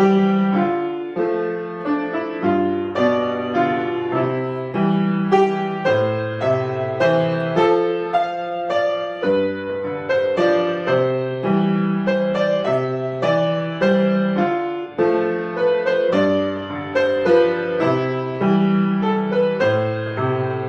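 Solo piano playing a flowing piece: a melody in the upper notes over a bass line, with new notes struck about two or three times a second and no pauses.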